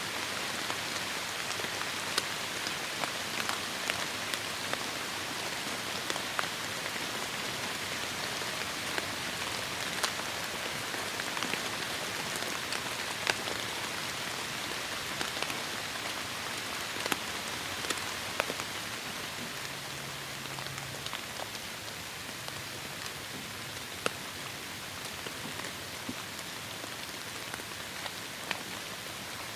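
Heavy rain falling steadily, a dense even hiss with scattered sharp ticks of individual drops striking close by. It eases slightly about two-thirds of the way through.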